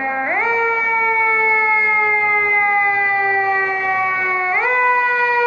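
Siren of a 2018 Pierce Arrow XT fire engine responding to a call. Its pitch jumps up quickly and then slides slowly down, twice: once just after the start and again near the end.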